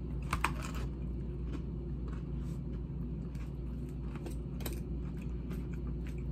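Chewing crunchy salad, with scattered crunches and clicks, a small cluster about half a second in, over the steady low hum of an air conditioner running.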